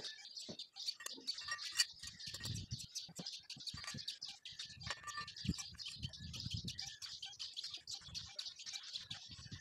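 Many small birds chirping busily, a rapid run of short high chirps, with a low rumble coming and going in the background.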